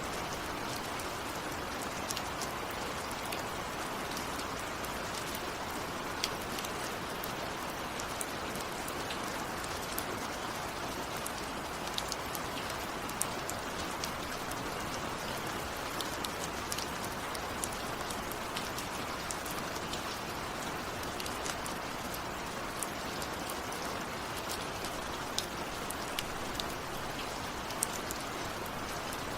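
Steady rain falling, with many sharp individual drop hits scattered throughout.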